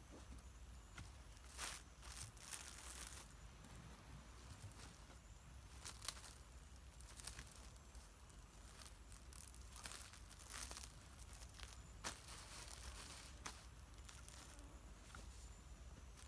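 Faint, irregular rustling and crinkling with scattered sharp crackles.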